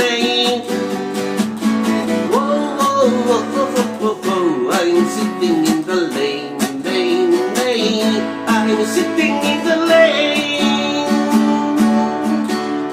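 Acoustic guitar strummed steadily through an instrumental passage of a ballad, chords ringing with a melodic line over them.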